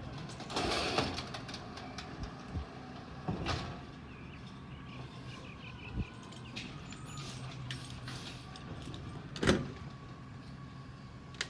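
Peterbilt 320 garbage truck running, with several metal clanks and knocks over its engine; the loudest bang comes about nine and a half seconds in.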